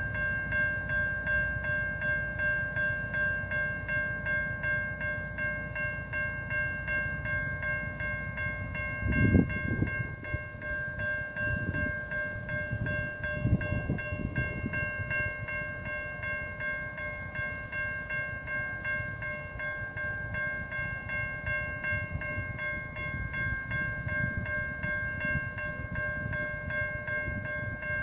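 A train running, a low rumble with a steady high whine of several tones held over it, and louder low surges about 9 and 13 seconds in.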